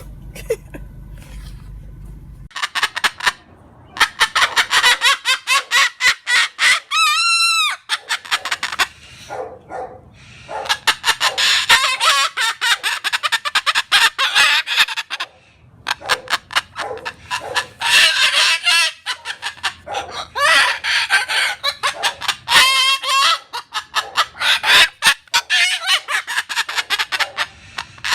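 Moluccan cockatoo vocalizing in excitement: rapid harsh chattering and squawks that start about two seconds in and keep going, with one short rising-and-falling call around seven seconds in.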